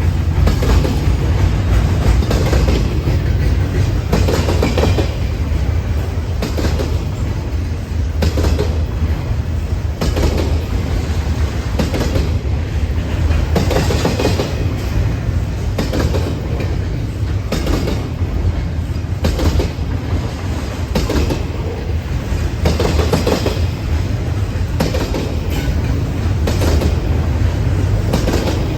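Freight train cars rolling past, their wheels clacking over the rail joints every second or two above a steady low rumble.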